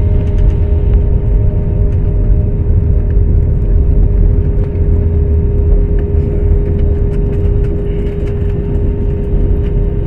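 Airliner cabin noise during the landing: a loud, steady rumble of the jet engines and airflow with a steady whine over it.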